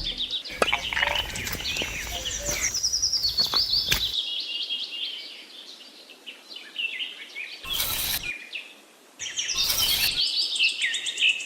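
Songbirds chirping and calling, many quick notes sliding down in pitch, with two short bursts of hiss about 8 and 10 seconds in.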